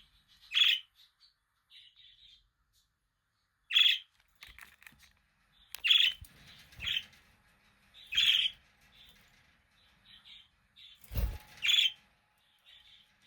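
Budgerigars chirping: sharp, loud calls every second or two with softer twittering between them, and a low thump about eleven seconds in.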